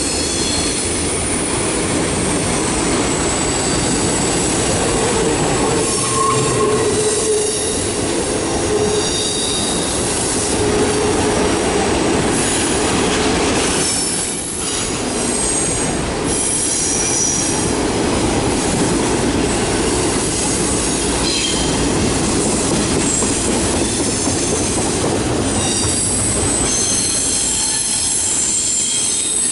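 Double-stack intermodal freight train's cars rolling past on a curve: a loud, steady rumble of wheels on rail, with high thin wheel-flange squeals that come and go.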